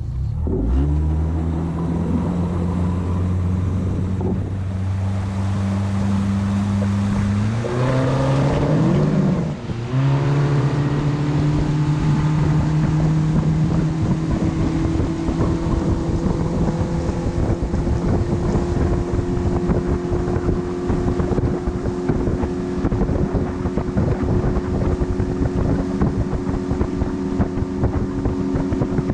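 Panga boat's motor revving up at the start and running steadily. About eight seconds in its pitch swings up and down, then it settles into a steady run at speed, pitch creeping slowly upward, with wind buffeting the microphone.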